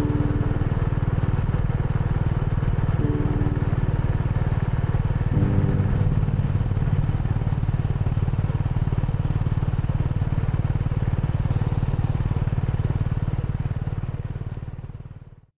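Honda Rebel 250's single-cylinder engine running steadily under way, with wind and road noise. It fades out near the end.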